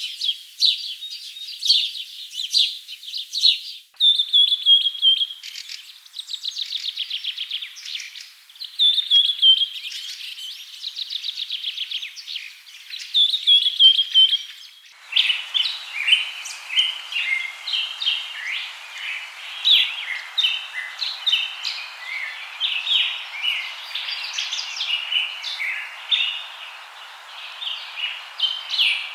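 Birds singing: rapid trilling phrases repeated one after another, then a busier chorus of short chirps over a steady hiss. The sound changes abruptly about four seconds in and again about halfway through.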